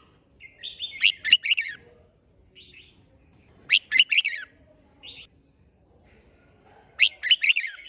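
Red-whiskered bulbul singing: three short, loud phrases of quick warbled notes, about three seconds apart, with faint chirps between them.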